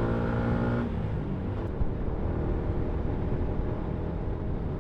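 Yamaha MT-125's single-cylinder 125cc engine running steadily under throttle, its note cutting off abruptly about a second in as the throttle is closed, leaving a steady rush of wind and road noise.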